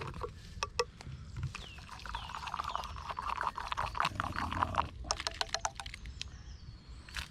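A spoon stirring a drink in a cup: a run of quick clicks and scrapes, thickest from about two to five seconds in.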